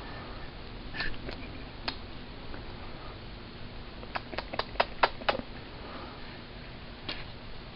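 A quick run of about six sharp clicks or taps in a little over a second, over a faint steady hum, with a few single clicks before and after.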